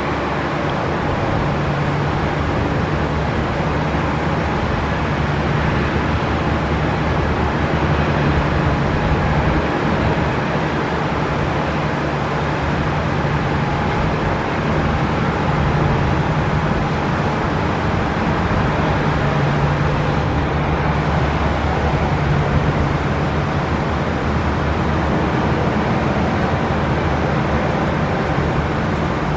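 Jet airliner engines running steadily, a constant noise with a low hum and a thin high whine that hold level throughout.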